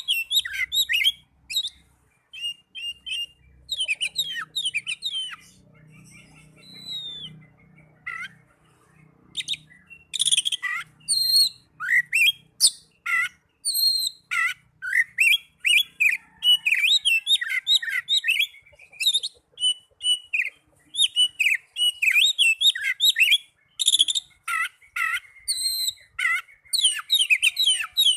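Oriental magpie-robin (kacer) singing its aggressive fighting song: rapid, varied chirps and whistles in quick bursts with short pauses, softer for a stretch about four to nine seconds in.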